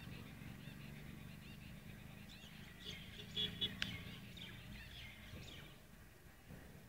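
Wild bird chirping in short calls through the middle of the clip, with a sharp click about four seconds in, over a faint low background rumble.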